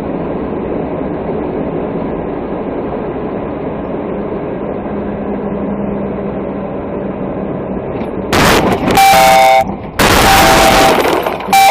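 Steady road and engine noise from a moving vehicle, then, about eight seconds in, three very loud horn blasts, each sounding several tones at once.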